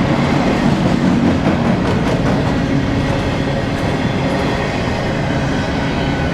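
BNSF freight train's cars rolling past: a steady rumble of steel wheels on rail, with a few clicks of wheels over rail joints about two seconds in.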